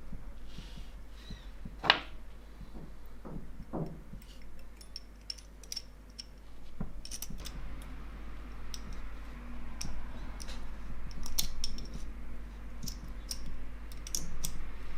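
Small metal parts clicking and tapping as they are handled, with a sharper knock about two seconds in. A soft rubbing hiss runs under the clicks in the second half.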